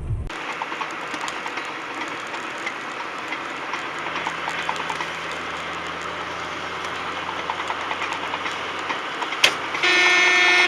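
Steady road and engine noise of a moving car as heard by a dashcam, with small scattered clicks. Near the end comes a sharp click, then a short, loud, steady car-horn blast.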